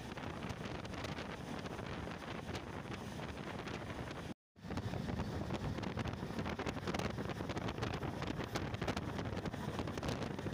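Wind rushing over the microphone at the open window of a moving passenger train, over the train's steady running rumble. The sound cuts out completely for a moment about four seconds in, then returns with a heavier low rumble.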